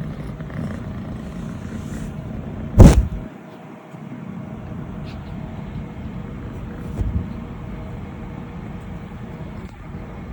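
Scottish Fold kitten purring steadily up close as she is petted. About three seconds in there is one loud thump, after which the purr briefly fades, and a softer bump comes about seven seconds in.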